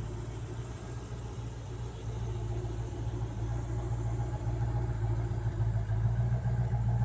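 A steady low engine hum, like an idling engine, growing somewhat louder about two seconds in.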